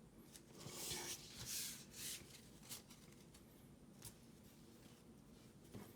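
Faint rustling of Pokémon trading cards and booster-pack wrapping being handled, a few soft swishes in the first couple of seconds, then a few light taps.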